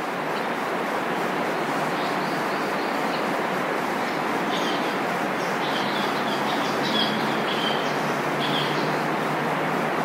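Japanese paradise flycatcher giving short, sharp 'kihi' calls, about half a dozen from about halfway through, over a loud, steady rushing background noise.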